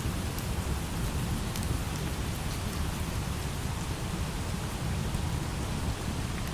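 Steady light rain falling, over a continuous low rumble of distant thunder, with a few faint sharp crackles.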